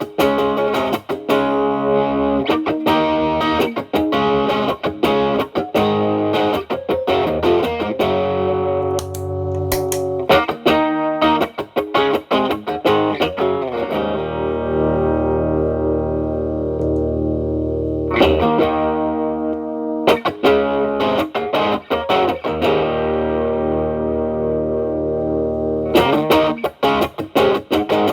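Telecaster electric guitar played through an Xotic BB overdrive pedal into a Marshall Valvestate amp's clean channel, set for a cleaned-up tone with light crunch. Picked notes and chords, with one chord left ringing for about four seconds midway.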